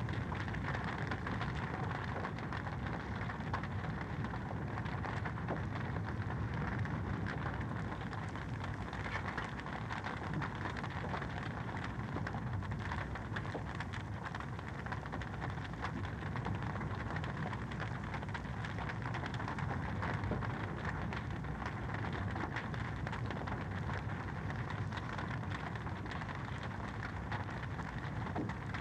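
Fireplace wood fire crackling steadily: a dense run of small pops and snaps over an even hiss.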